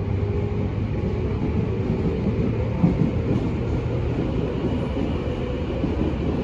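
Inside a Tobu 10030 series electric train running along the line: a steady rumble of wheels and traction motors, with one brief louder knock a little under halfway through.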